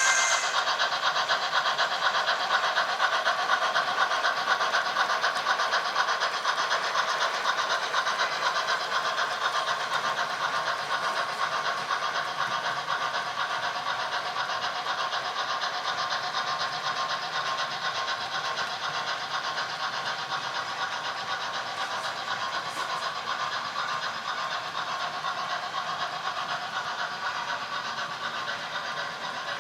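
HO scale model freight train behind steam locomotives running along the track, a steady rolling rattle that slowly fades as it moves away.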